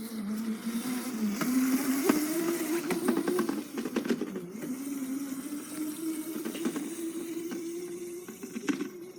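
Small dirt bike's motor running, its whine rising and falling in pitch as the throttle changes, with scattered ticks and crackles from the tyres over the ground.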